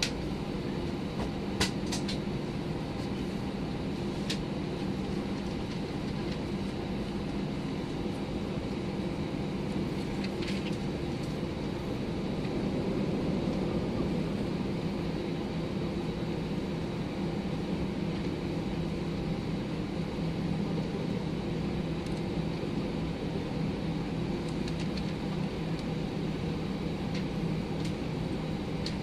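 Steady cabin drone inside an Airbus A319: engine and air-conditioning noise with a low hum, and a few faint clicks in the first seconds and again about ten seconds in.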